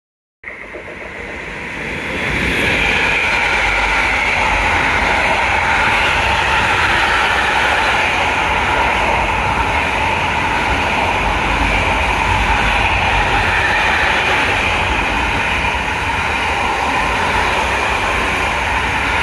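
Container train hauled by a Metrans Class 386 electric locomotive rolling past: the sound starts abruptly about half a second in and swells over the next two seconds, then holds as a steady, loud rumble of wheels on rails.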